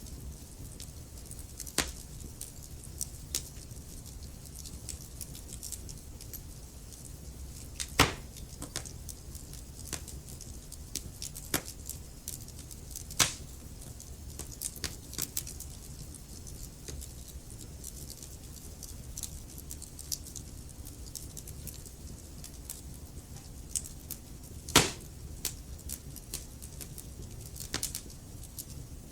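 Wood fire crackling in a fireplace: irregular small crackles over a low steady rumble, with two loud pops, one about eight seconds in and one near the end.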